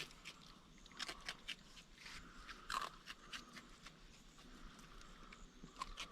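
Raccoon eating crunchy food at a feeder: a faint, irregular string of crunches and clicks as it bites and chews.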